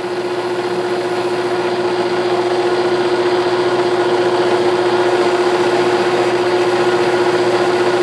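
1967–68 Clausing Colchester 1340 metal lathe running steadily at about 570 rpm, with one steady tone over the machine noise, while it turns a small undercut at a shoulder.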